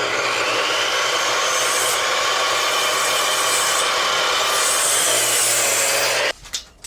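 Power miter saw running and cutting through a wood board: a loud, steady whine of blade through wood for about six seconds, stopping suddenly near the end.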